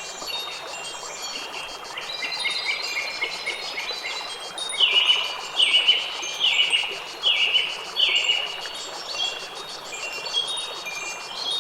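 Wind chimes ringing, many overlapping tones that hang and fade, over a steady background hiss. Near the middle comes a run of five louder strikes, a little under a second apart.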